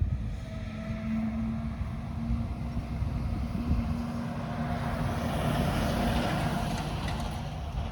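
Yanmar AF26 compact tractor's diesel engine running, a steady hum and rumble that grows louder about five seconds in and eases again near the end.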